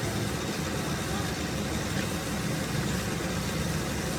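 Steady low engine rumble running evenly, with no change in pitch or level.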